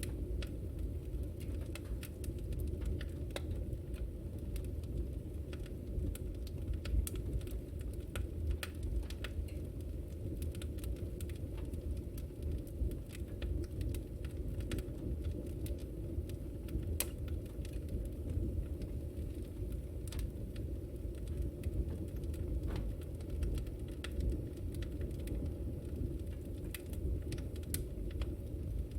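Wood fire burning in a fireplace: a steady low roar of flame with irregular sharp crackles and pops from the burning logs.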